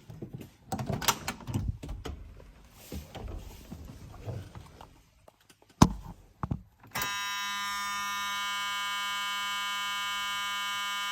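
Knocks and rustling of someone getting into the pickup's cab, with a door shutting about six seconds in. About a second later the 1979 Ford F-350's dashboard warning buzzer starts and sounds steadily, the engine not yet cranked.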